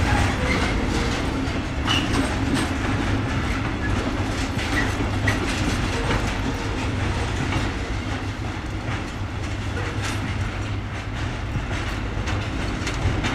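Freight train of loaded intermodal container wagons rolling along the track, the wheels clicking over the rail joints.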